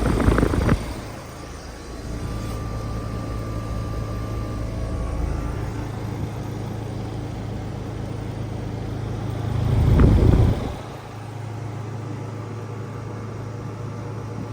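Trane XR14 heat pump in its defrost cycle, the compressor humming steadily. A loud rush of refrigerant sounds at the start, and another about ten seconds in that swells and then cuts off, typical of the reversing valve shifting.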